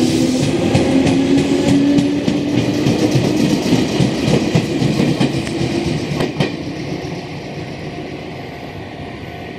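Red Meitetsu electric commuter train running away from the platform, its wheels clacking rhythmically over the rail joints under a steady hum. It fades steadily as it recedes, and the hum drops out about six seconds in.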